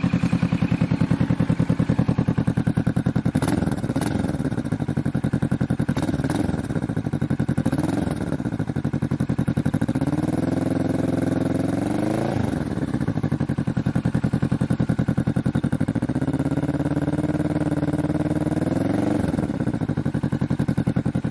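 Kawasaki Vulcan S parallel-twin engine through a cheap aftermarket full exhaust system, warm and idling with a deep rumble. It is blipped lightly a few times, then revved up and held for about two seconds twice, about ten and sixteen seconds in, each time dropping back to idle.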